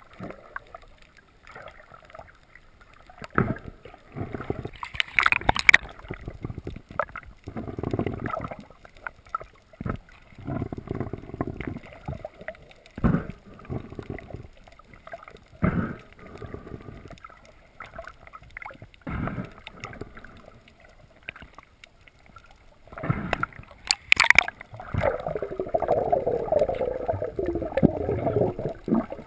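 Water sloshing, gurgling and splashing, broken by irregular knocks, with a longer stretch of gurgling near the end.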